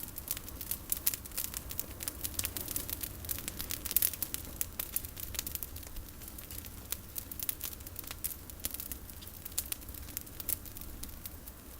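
Campfire of pruned olive branches crackling, with dense, irregular snaps and pops.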